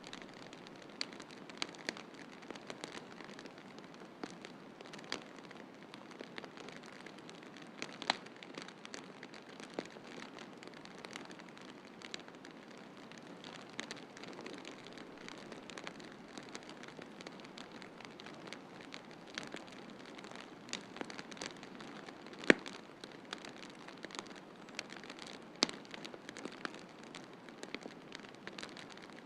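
Wood fire crackling in a fireplace: irregular snaps and pops scattered throughout, the sharpest pop about three quarters of the way through, over a steady hiss.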